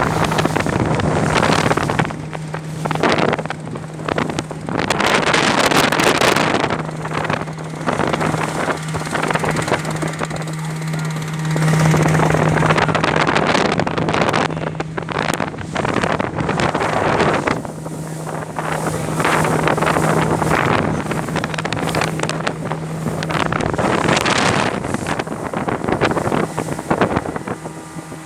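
Motorboat engine running with a steady low hum, while wind buffets the microphone in irregular gusts.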